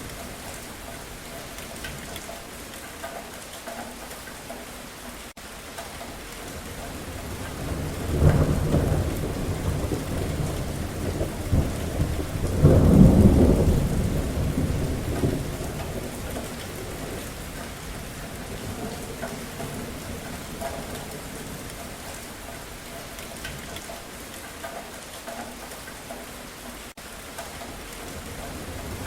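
Steady rain falling, with a roll of thunder that begins rumbling about a quarter of the way in, swells to its loudest near the middle and dies away; a fresh rumble starts just at the end.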